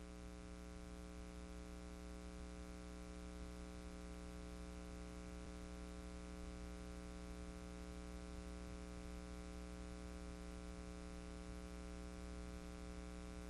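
Faint steady electrical hum with a layer of hiss, unchanging throughout: the background noise of the recording, with no storm or wind sound.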